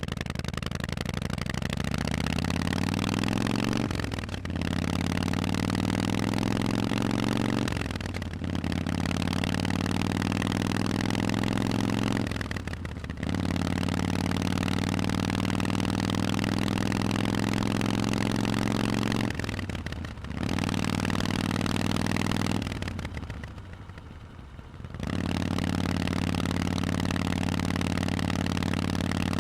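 Harley-Davidson Forty-Eight's air-cooled V-twin, through Vance & Hines aftermarket exhausts, pulling away and accelerating: the exhaust note climbs in pitch, dips briefly at each gear change about every four seconds, eases off for a couple of seconds near the end, then runs on steadily.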